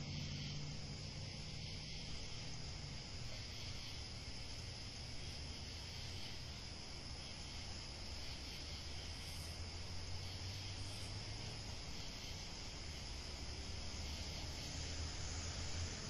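Steady background hiss with a low hum underneath, with no distinct events.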